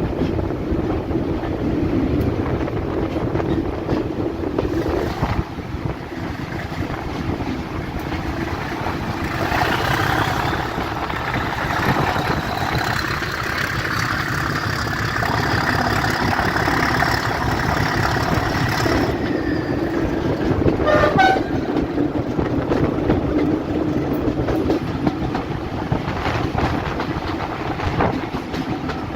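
Heritage diesel locomotive running with a steady engine drone, and a higher, horn-like tone sounding for several seconds in the middle.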